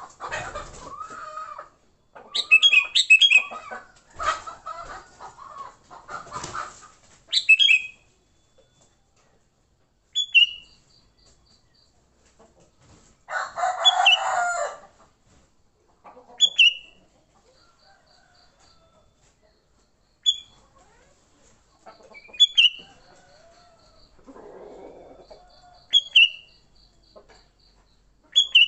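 Sooty-headed bulbuls calling. A busy, tangled chatter of overlapping calls fills the first seven or so seconds. Then come short sharp call notes every couple of seconds, with a harsher, noisier burst about halfway through.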